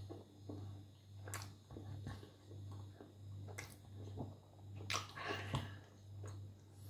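Close-up chewing of bread, a soft rise and fall about twice a second, with a few sharp clicks and a steady low hum beneath.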